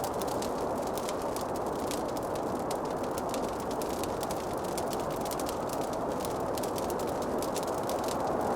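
Wood fire in a fireplace crackling, with many small sharp pops scattered irregularly over a steady dull rushing noise.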